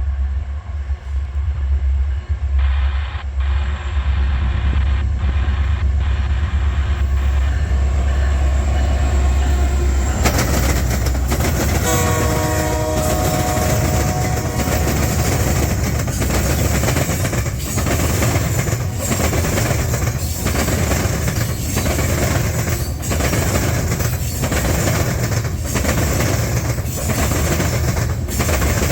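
Southbound Canadian National freight train passing close by: a deep diesel locomotive rumble, the horn sounding a chord for a few seconds about twelve seconds in, then the loud, steady roll of freight cars with a regular clickety-clack of wheels over the rail joints.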